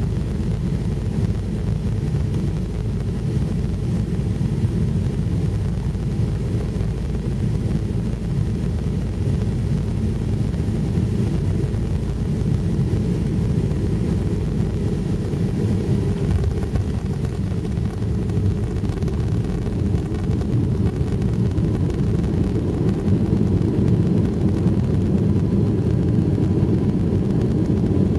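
Airliner cabin noise: the steady low rumble of jet engines and rushing air heard from inside the passenger cabin, growing slightly louder over the last few seconds.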